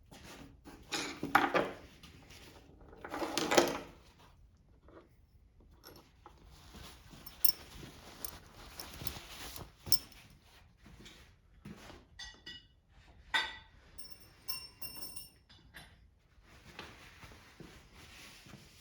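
Metal hand tools and engine parts clinking and scraping during small-engine disassembly: two louder scraping bursts in the first few seconds, then scattered clicks and short ringing metal clinks.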